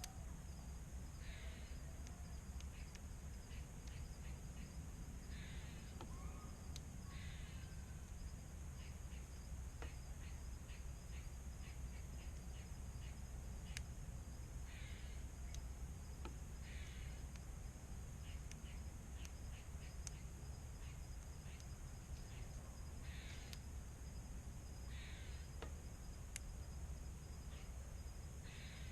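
Harsh bird calls, crow-like caws, about seven of them spread out, each roughly half a second long, heard faintly. Underneath runs a steady high-pitched drone with scattered faint ticks.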